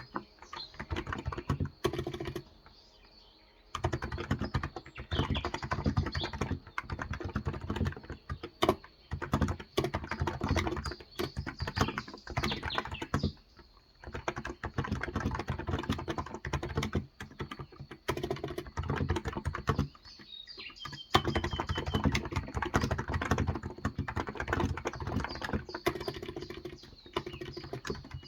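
Typing on a Cox Endeavour electro-capacitive keyboard with 35 g switches, in fast continuous runs of keystrokes with short pauses about two and a half seconds in and near the middle. Birds chirp faintly in the background.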